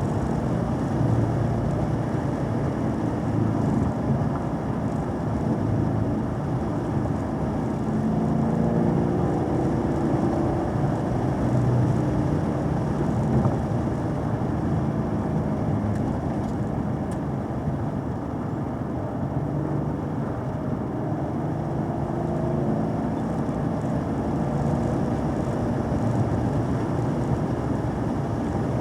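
Vehicle engine running at cruising speed, its note rising and falling as the throttle and revs change, over steady road and wind noise.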